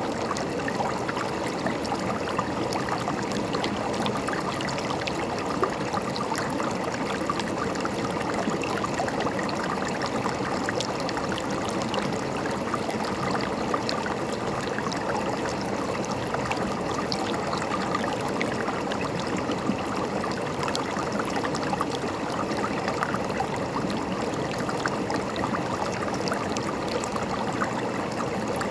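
River water flowing and gurgling, a steady rushing with many small splashes.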